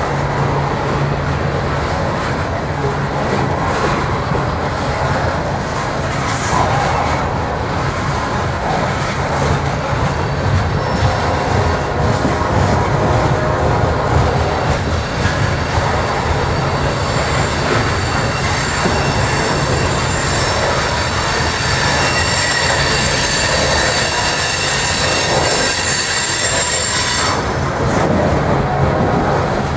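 Coal train hopper cars rolling past on the rails: a steady loud rumble and rattle of steel wheels on track. About halfway through a high-pitched metallic squeal from the wheels joins in and cuts off suddenly near the end.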